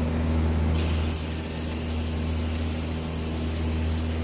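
Water spraying from a camp shower head, starting with a hiss about a second in, over a steady low hum.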